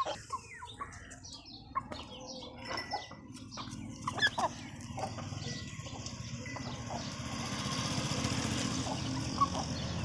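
Aseel chickens clucking and calling now and then in short notes, over a steady low hum that grows louder in the second half.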